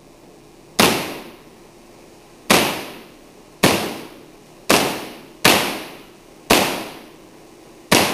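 Seven loud, sharp cracks of artificial lightning, high-voltage spark discharges striking about one to one and a half seconds apart, each dying away with an echoing tail.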